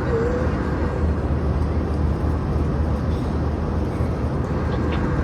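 Steady cabin noise of an airliner in cruise: an even roar of engines and airflow with a deep low rumble underneath.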